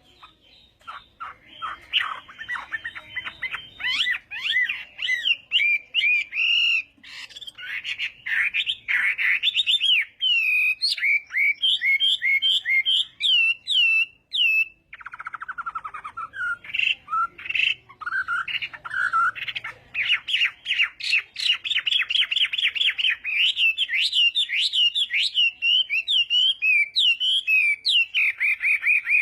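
Chinese hwamei singing a long, loud, varied song of rapid repeated notes and whistled trills, with a brief pause about halfway through.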